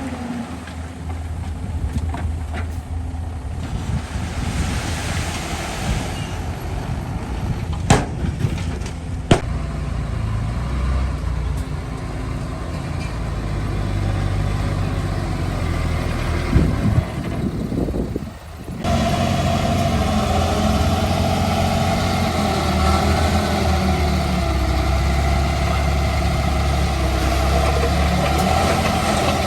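Diesel engine of heavy earthmoving machinery running steadily, with two sharp knocks about eight and nine seconds in. About nineteen seconds in the sound changes abruptly to a louder, harder engine note that holds to the end.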